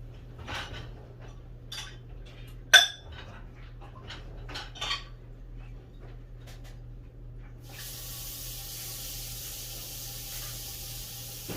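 Dishes and utensils clinking and knocking as they are handled at a sink, with one sharp loud clank a little under three seconds in. About eight seconds in a tap is turned on and water runs steadily.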